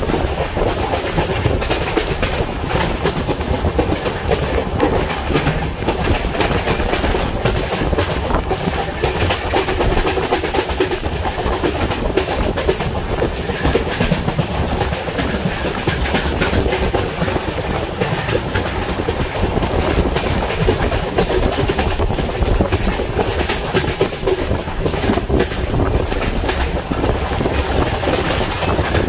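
Indian Railways express train running at speed, heard from on board: a steady rumble of wheels on track with constant clicking and rattling from the coach.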